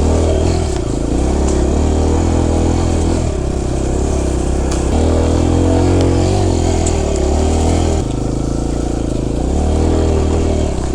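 A four-stroke dirt bike engine pulling along a trail, its revs rising and falling again and again as the throttle is worked.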